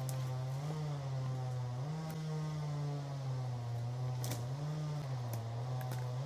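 An engine running steadily, its pitch rising and falling a little every second or two, with a few faint clicks.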